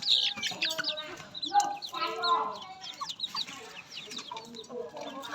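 A crowded flock of farm poultry calling: a dense chatter of many short, high chirps with lower clucks and calls mixed in.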